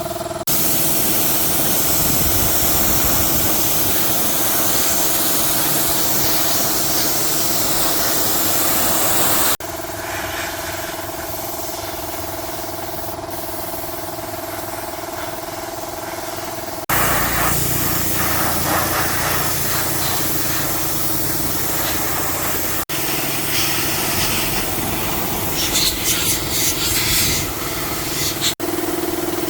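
Hissing of a high-pressure spray jet, broken into several segments by abrupt cuts, with a steady motor hum under some of them.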